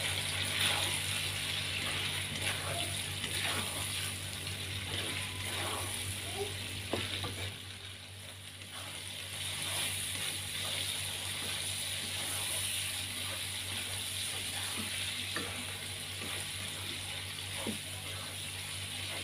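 Tofu cubes and chopped green vegetables sizzling in a granite-coated wok while a plastic spatula stirs and turns them, with light scrapes and knocks of the spatula against the pan. The sizzle eases briefly about halfway through, over a steady low hum.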